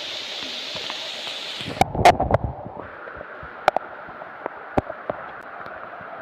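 Steady hiss of rain falling on a rubber plantation, with a brief cluster of loud knocks about two seconds in and scattered sharp ticks and drips after. The hiss changes character abruptly about three seconds in.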